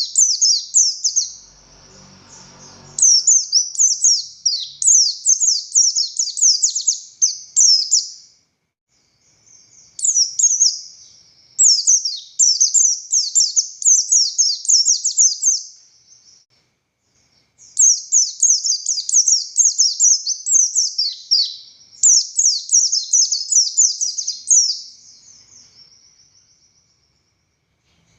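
Buxtoni white-eye (pleci buxtoni) singing in fast, high twittering phrases. Each phrase is a rapid string of down-slurred notes lasting several seconds, with short pauses between phrases. This is the bird's full, excited song (gacor, ngalas).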